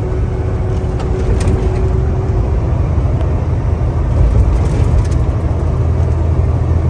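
Semi truck driving at speed: a steady low engine drone mixed with road noise.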